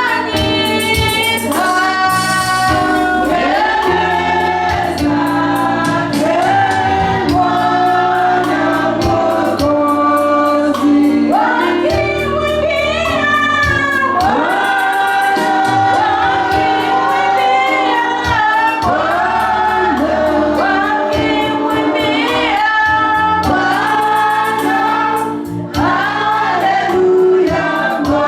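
A choir singing a gospel worship song over instrumental backing with a steady beat.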